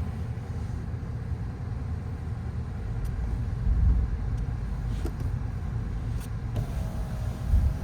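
Car in motion heard from inside the cabin: a steady low rumble with a couple of brief bumps. Near the end a thin steady whine starts up.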